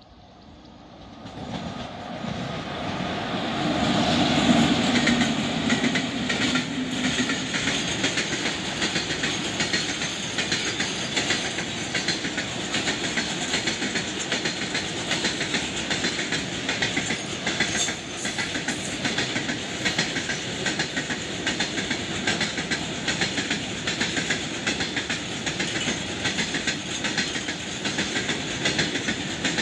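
Freight train of open hopper wagons passing close by. The sound swells over the first few seconds as the locomotive draws level, then settles into a steady, rhythmic clatter of wagon wheels over the rails.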